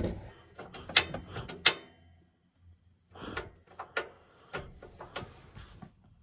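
Sharp clicks, knocks and light clunks of objects being handled and set down inside a cramped truck-bed camper shell. They come in two bursts, with a near-silent pause of about a second between them.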